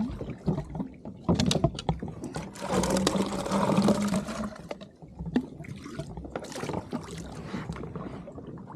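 Water splashing and trickling around a fishing kayak, with irregular small knocks and clicks, busiest in the first half.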